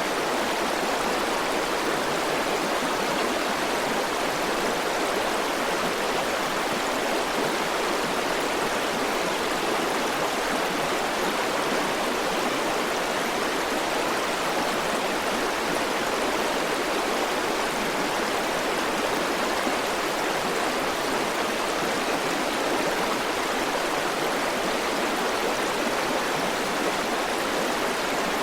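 River water flowing over rocks: a steady, even rushing with no breaks or changes.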